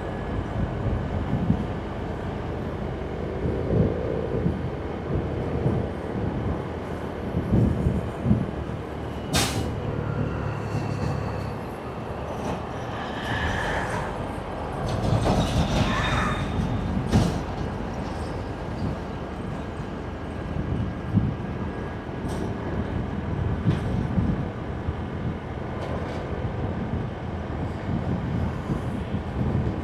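Road noise of a motorbike riding at night: the bike's engine and wind on the microphone, with other traffic around. There is a sharp click about a third of the way in and a brief high, wavering squeal around the middle.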